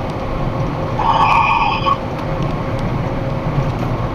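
Box truck running down the road, heard from inside the cab as a steady engine and road rumble. About a second in, a brief pitched tone sounds over it for roughly a second.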